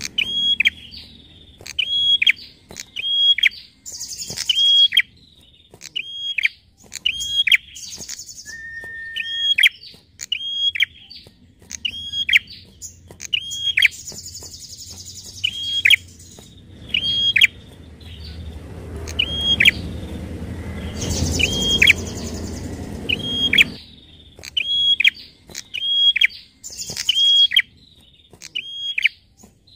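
Prinia (prenjak) calling: a sharp chip-like note repeated steadily, about one and a half a second, with short higher buzzy trills now and then. A low rumble runs under it for several seconds past the middle.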